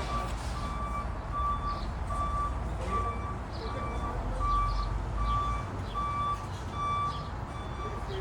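Vehicle backup alarm beeping steadily, a single high tone repeating about one and a half times a second, over a low background rumble.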